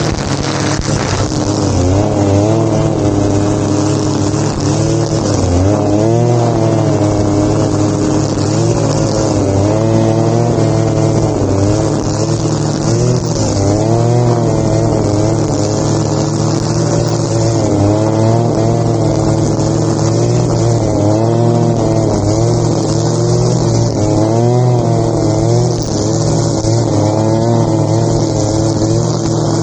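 Grass-cutting machine's small petrol engine running steadily under load, its pitch wavering up and down every second or two as it cuts through grass.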